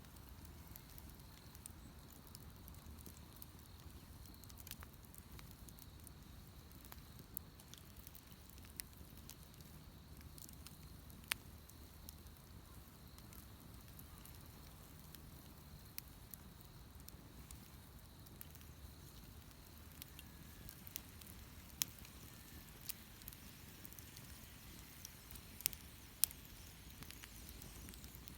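Wood bonfire crackling faintly, with scattered sharp pops at irregular intervals and a few louder snaps towards the end.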